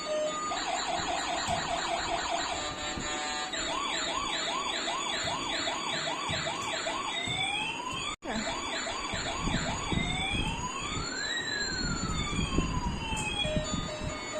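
Toy police car's electronic siren sound effects playing through a small speaker. A fast yelp gives way to rising-and-falling whoops about twice a second, then to long sliding wails near the end, with a brief cut-out about eight seconds in.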